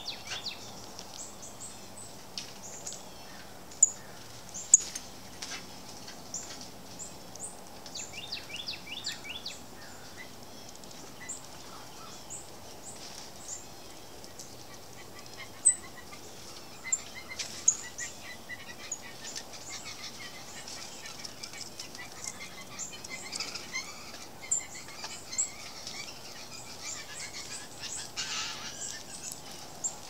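Several wild songbirds chirping and calling, with quick runs of short high notes and a few sharp, loud single chirps standing out.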